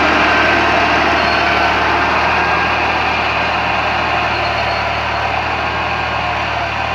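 New Holland 480 tractor's diesel engine running steadily, slowly growing a little quieter.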